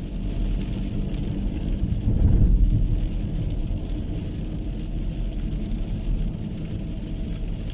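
Rainstorm: a steady low rumble that swells about two to three seconds in, over a faint even hiss of rain.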